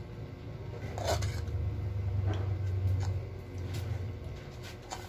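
Close-up eating sounds of someone chewing black bean noodles: a handful of short, wet mouth smacks and clicks about a second apart, the loudest about a second in, over a low steady hum.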